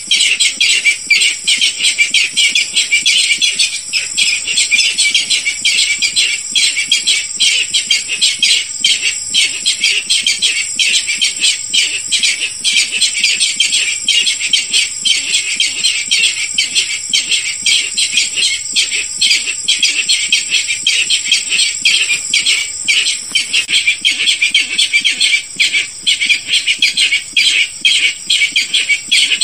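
Barred rail calls played as a hunting lure recording: a dense, unbroken run of rapid, harsh repeated notes, loud and steady, with a steady high-pitched band above them.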